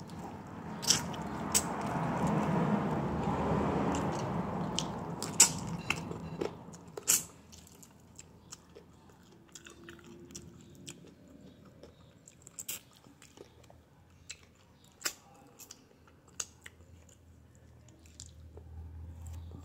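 Close-up mouth sounds of biting and chewing stewed chicken meat off the bone: sharp clicks and wet smacks scattered through. During the first seven seconds, street noise swells and fades behind it.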